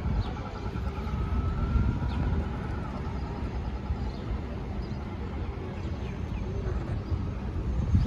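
Steady low rumble of city traffic, with a few faint, short bird chirps above it.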